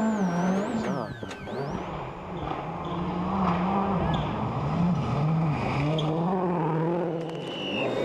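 A 2007 World Rally Car's turbocharged four-cylinder engine driven hard, its pitch climbing and dropping about once a second through quick gear changes.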